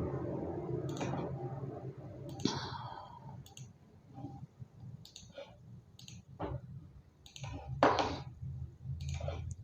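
Computer mouse and keyboard clicks, a dozen or so at irregular intervals, over a faint steady low hum.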